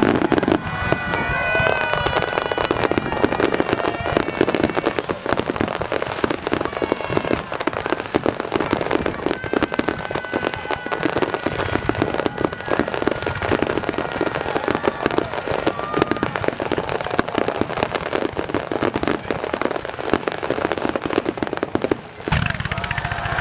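Aerial fireworks barrage: a dense, continuous run of shell bursts, bangs and crackling with no gaps. A few steady high tones sound over it in the first seconds and again about ten seconds in.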